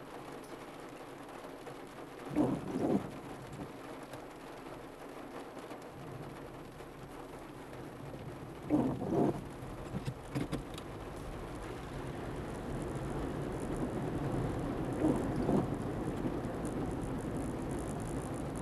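Heavy rain drumming on a car's roof and windshield, heard from inside the cabin, growing heavier in the second half. A few brief louder swells break through about 2, 9, 10 and 15 seconds in.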